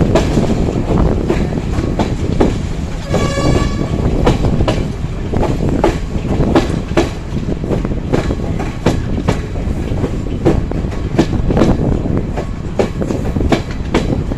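Train running along the track, its wheels clacking steadily over rail joints under a continuous rumble. A short train horn blast sounds about three seconds in.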